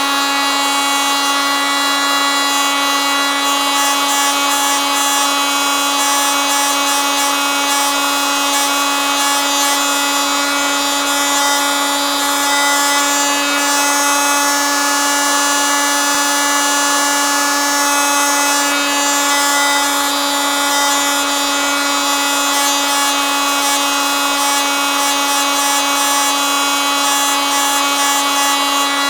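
Oscillating multitool running steadily, a constant buzz with many overtones that holds the same pitch throughout.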